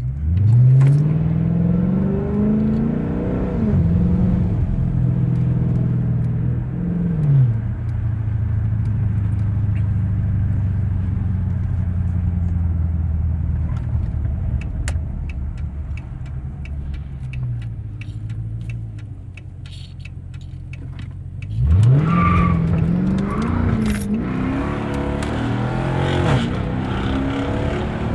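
2013 Dodge Charger engine and exhaust under hard acceleration: the revs climb fast, drop at two upshifts and climb again. It then holds a steady cruise and eases off, and near the end it accelerates hard once more, revs rising through another shift.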